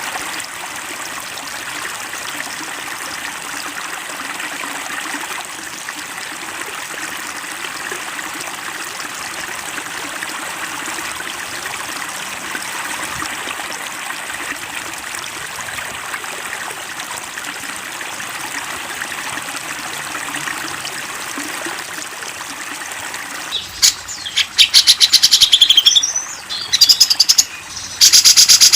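Steady stream of flowing, trickling water, then a bit before the end a songbird bursts in loud with fast, high-pitched chattering trills in quick repeated phrases, a recorded 'masteran' song for tutoring cage birds.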